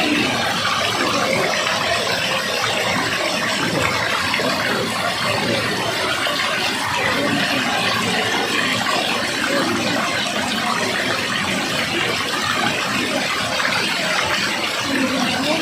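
Waterfall: water falling and rushing steadily in an even, unbroken wash of noise.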